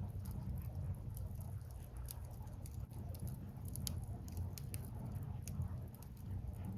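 Wood fire burning: many scattered small crackles and pops from the burning logs over a steady low rumble.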